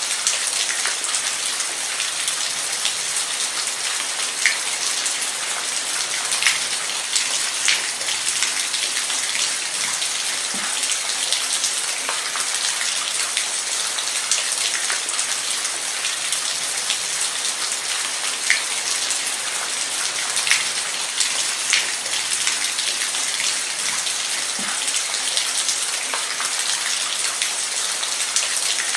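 Steady rain hissing, with a dense patter of individual drops ticking sharply on a surface.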